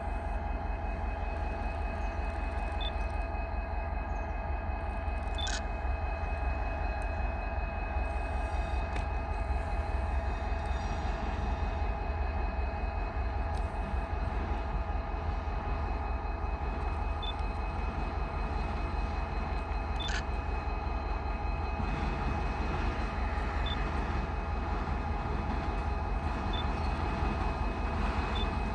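Freight train running on the line: a steady low rumble with a constant high hum over it and a couple of short clicks.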